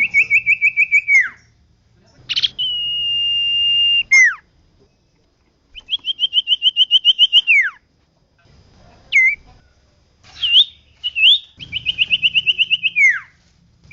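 An iora (cipoh) singing hard: three quick trills of about ten to fourteen rapid even whistled notes, each ending in a falling slur, with a long steady whistle about 2.5 s in and a few short slurred notes around 9 to 11 s.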